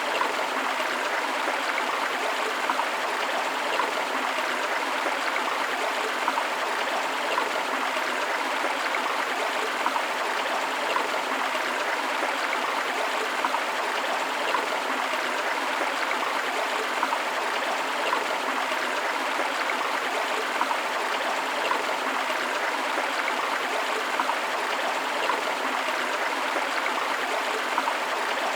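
A river flowing steadily: an even rush of water with small splashes now and then and little low rumble.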